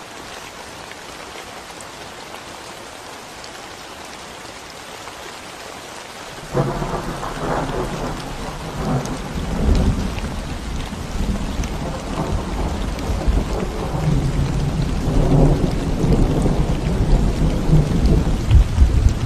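Steady rain falling on a concrete road, an even hiss. About six seconds in, a loud deep rumble of thunder breaks in suddenly and keeps rolling, swelling again near the end.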